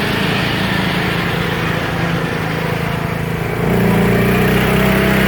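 Riding lawnmower engine running at speed, steady, then louder about three-quarters of the way through.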